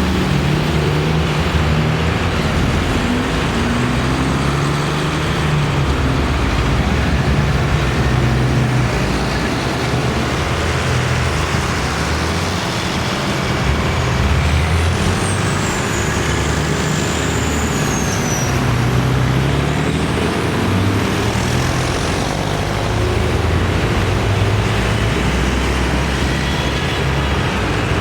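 Tractor engines running as tractors drive past one after another, their low engine notes rising and falling with each machine.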